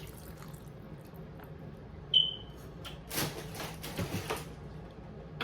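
Kitchen handling sounds over a low steady hum: a short, high ringing clink about two seconds in, then a few brief rustles as the juice jar and the plastic Ziploc bag of marinating chicken are handled.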